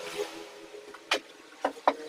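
Three sharp knocks on wood: one a little after a second in, then two in quick succession near the end, over a faint steady hum.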